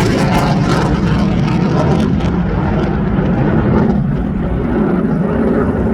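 Twin jet engines of a CF-18 Hornet fighter flying past, a loud rushing noise with some crackle in the first couple of seconds; the high hiss fades after about three seconds as the jet moves away.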